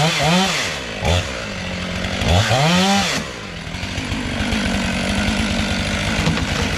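Two-stroke chainsaw revved up and back down in short bursts, twice plus a quick blip, then idling steadily from about halfway through.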